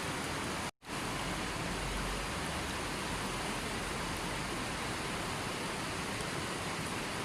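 River water flowing in a steady, even rush. It cuts out completely for a split second just under a second in, then resumes unchanged.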